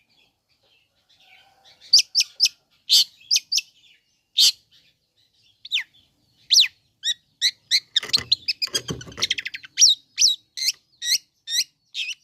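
Long-tailed shrike (cendet) song: a rapid series of sharp, high chirps and swooping notes, with a fast chattering rattle about eight seconds in.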